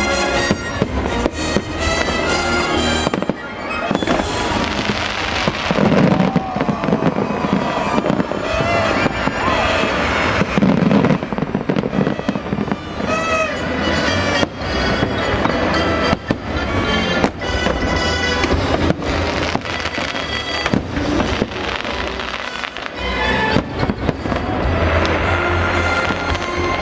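Fireworks display: aerial shells bursting with many sharp bangs in quick succession, mixed with the show's music.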